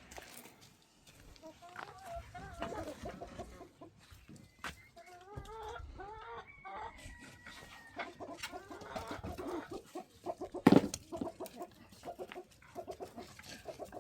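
Chickens clucking, with short pitched calls and quick runs of clucks, and one sharp knock a little past the middle.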